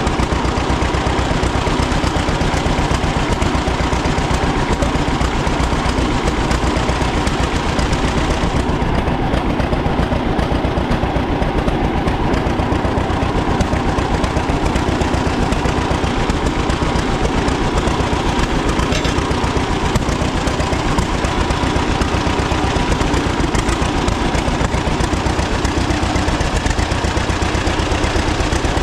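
1936 John Deere A's two-cylinder engine running steadily, with an even, fast run of low exhaust pops.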